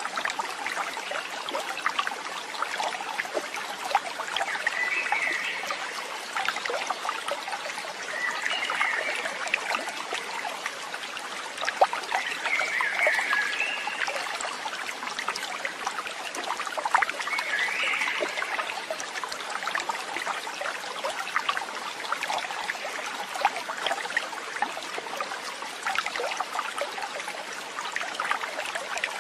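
Water trickling and babbling steadily, like a small stream over stones, with four brief high chirps spread through it.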